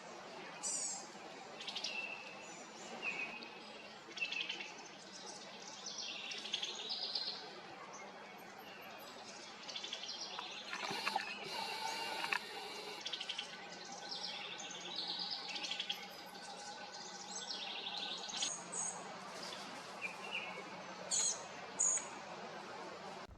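Several wild songbirds singing and calling in short, overlapping phrases, one after another throughout. A faint steady drone sits underneath for several seconds about halfway through.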